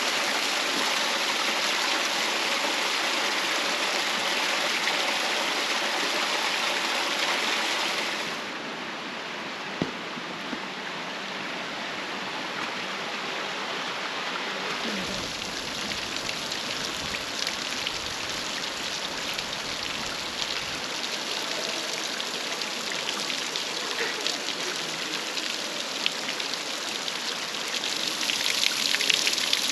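Hot spring water running and splashing down a rocky creek in a steady rush. It drops to a quieter level about eight seconds in and swells again near the end.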